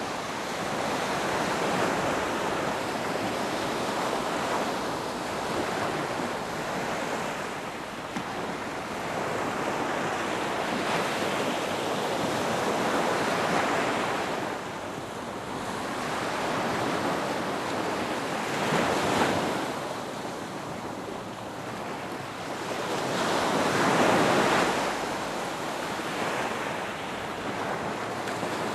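Ocean waves breaking and washing on a beach, a continuous surf that swells and ebbs, with louder breakers about two-thirds of the way in and again near the end.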